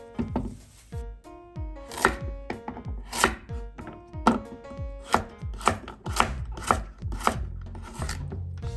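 Kitchen knife chopping food on a cutting board, a run of sharp strokes about two a second.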